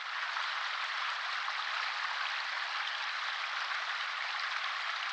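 A steady, even hiss with no pitch to it, starting and stopping abruptly.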